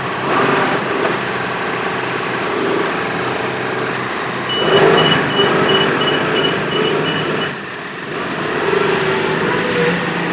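Compact utility tractor's diesel engine running steadily. A high beep repeats about three times a second for about three seconds midway through.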